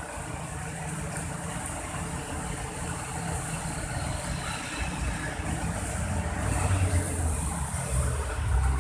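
Motor vehicle engine running close by, its rumble growing louder over the last few seconds, over a steady hiss of rain.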